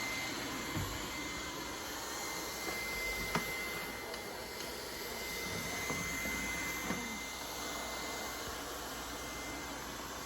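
Robot vacuum cleaners running: a steady whirring hiss with a thin high whine held throughout, and a few short light knocks.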